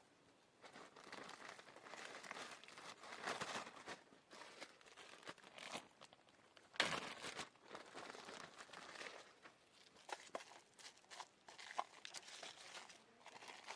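Rustling and crinkling handling noises with scattered sharp clicks, and one louder knock about seven seconds in.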